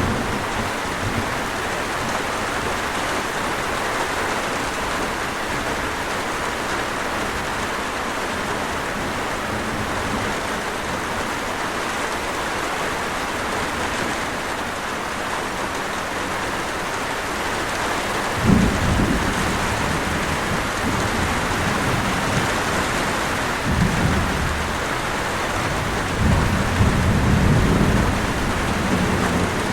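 Steady rain falling, with thunder rumbling in the second half: a sudden low rumble about two-thirds of the way in, then two more near the end, the last one longer.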